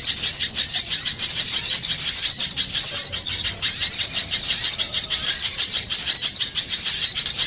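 A dense chorus of many small birds chirping rapidly and overlapping, high-pitched, with short upward-hooked notes repeating over and over: a 'noisy small birds' lure recording used to draw small birds in for trapping.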